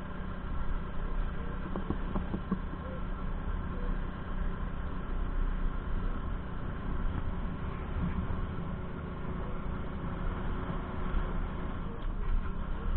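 An engine running steadily, a continuous low drone with a constant pitch.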